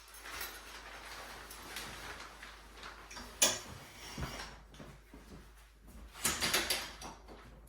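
Knocks, rattles and scraping of shower curtain rod hardware being handled and fitted, with one sharp click about three and a half seconds in and a short run of knocks a little after six seconds.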